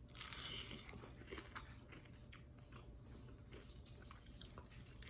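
A bite into a crispy fried shrimp-and-taro cake, crunching loudest right at the start, followed by faint crunchy chewing with small clicks.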